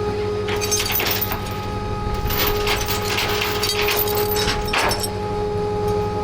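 Tow truck running with a steady hum and whine, over irregular scraping and cracking of the wrecked motorcycle's metal and plastic being moved onto the truck.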